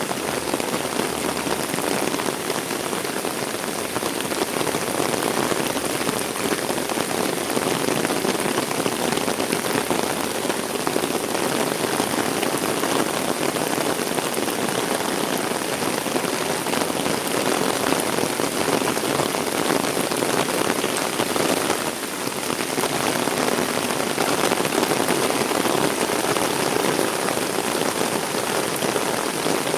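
Heavy rain falling steadily on surfaces, a dense, even hiss with only a brief lull about two-thirds of the way through.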